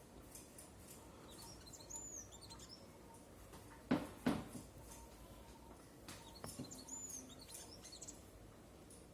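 Small birds chirping in two short bouts of high, arched calls, over a faint steady background hiss. Two sharp knocks about four seconds in are the loudest sounds.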